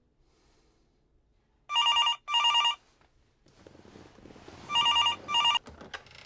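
Telephone ringing: two double rings, each a pair of short trilling electronic tones, the first pair about two seconds in and the second about three seconds later.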